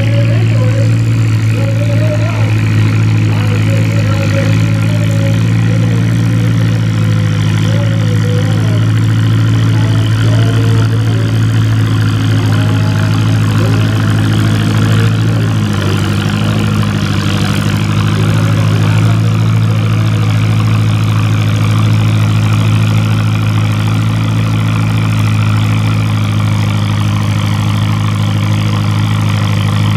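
Antique tractor engine running steadily at a constant speed, its note shifting slightly about halfway through.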